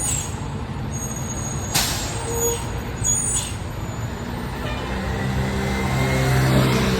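Fire truck diesel engine rumbling, with a short air-brake hiss about two seconds in. Near the end the engine grows louder and climbs as the truck pulls away.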